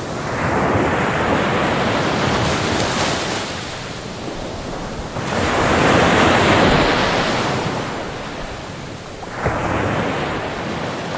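Ocean waves breaking on a beach: three surges of surf, one at the start, one about five seconds in that is the loudest, and one near the end, each washing in and fading.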